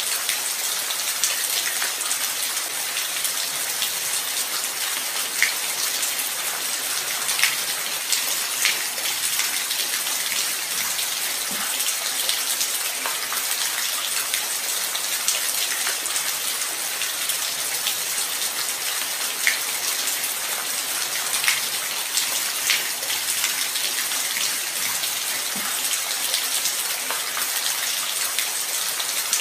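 Steady light rain, an even hiss of falling drops with louder single drips ticking through it now and then.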